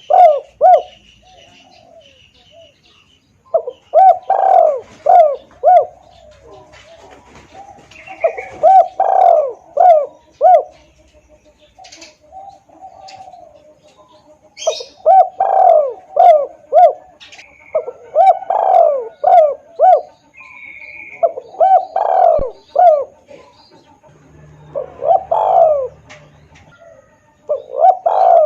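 Spotted dove (tekukur) cooing: short phrases of several low coos, repeated about every three to four seconds, the loud, clear call used as a lure. Faint high chirps of small birds come between the phrases.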